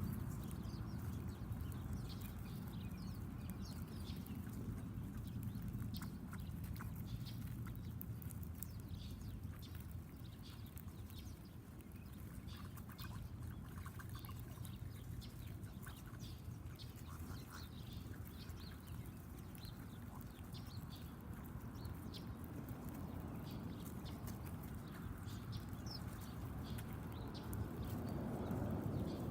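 Backyard birds giving many short, high chirps scattered through the clip, over a steady low rumble.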